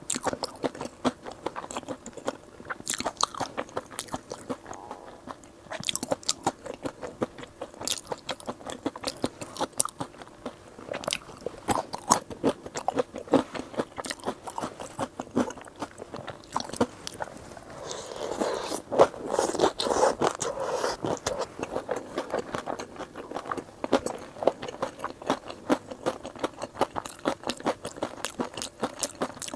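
A person biting and chewing crunchy seafood close to the microphone: a steady run of sharp crunches and wet chewing, busiest and loudest about two-thirds of the way through.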